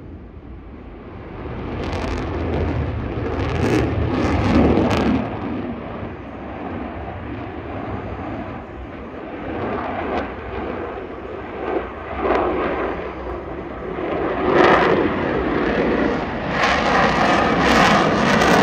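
Jet noise from a Lockheed Martin F-22 Raptor's twin Pratt & Whitney F119 turbofans as it flies its display. The noise builds within the first two seconds and then rises and falls in several surges, loudest about four seconds in and again near the end.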